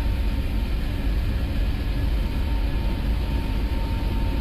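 Airbus A321 on its takeoff roll at takeoff thrust, heard inside the cockpit: a steady deep rumble of the engines and the wheels on the runway as the airliner accelerates past 100 knots toward V1, with a faint steady high tone above it.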